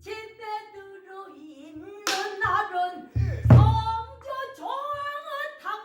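Pansori singer singing a long, wavering melodic line with heavy vibrato, accompanied by the gosu's strokes on the buk barrel drum: sharp strikes about two seconds and three and a half seconds in, with the drum's deep body tone ringing under the voice.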